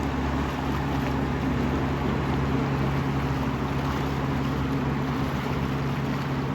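A dive charter boat's engine running steadily as the boat comes in through the inlet: a low, even hum over a hiss of wind and water.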